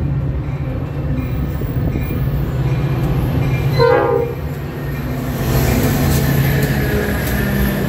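Metra commuter train's diesel locomotive running in toward the station with a steady low drone, sounding one short horn blast about halfway through. The rumble and rail noise swell over the last few seconds as the locomotive and coaches roll past close by.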